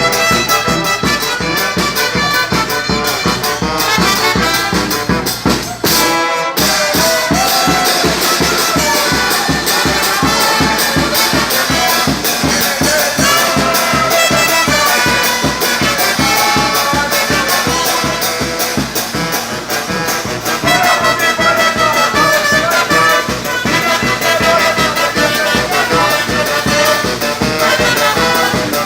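A txaranga, a Catalan brass street band, playing an upbeat tune: trumpets and trombones over a steady beat, with a brief break about six seconds in.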